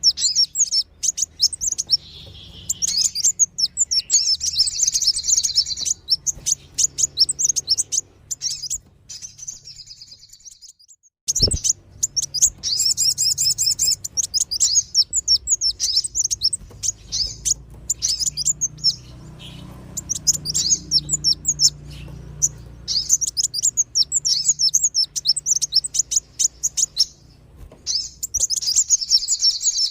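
Bird-lure recording of sunbird and spiderhunter calls: rapid, high, twittering chirps in dense, excited runs. There is a short break about ten seconds in, ended by a sharp click.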